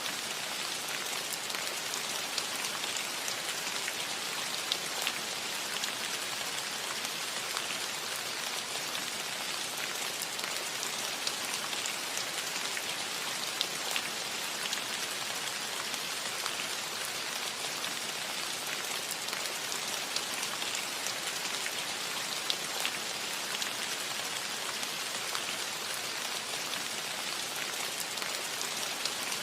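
Steady rain falling on a cottage roof, an even hiss with scattered individual drops ticking through it.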